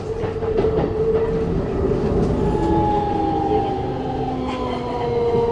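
Keikyu New 1000 train heard from inside the car: its Siemens GTO VVVF inverter whines in several steady tones over the rumble of wheels on rail. New tones come in and shift pitch partway through as the motors' speed changes.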